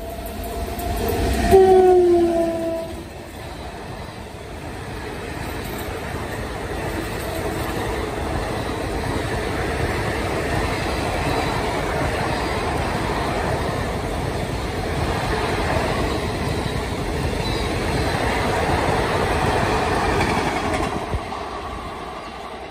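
Indian Railways passenger train running through at speed. The electric locomotive sounds its two-note horn, whose pitch drops as it passes, then the coaches rumble and clatter over the rails for most of the time, fading near the end as the train draws away.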